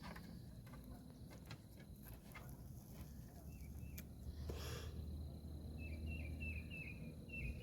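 Faint outdoor ambience with scattered light ticks and a brief rustle about four and a half seconds in, then a bird chirping in a quick series of short high notes over the last two seconds.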